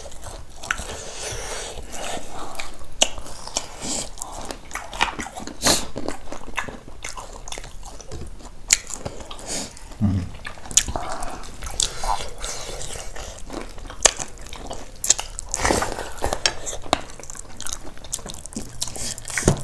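Close-up mukbang eating sounds: wet chewing and mouth smacking, with many short sharp clicks and crunches of bites.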